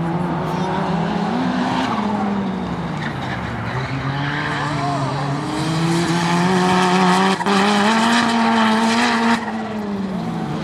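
Race car engines running on a road course, their pitch rising and falling as they accelerate and shift. A louder car goes by in the second half, its engine note cutting off suddenly near the end of the pass.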